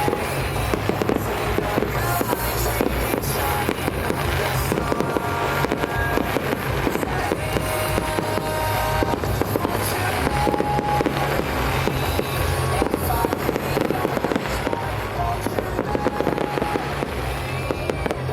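Fireworks going off in quick succession, a dense run of bangs and crackles, over music playing.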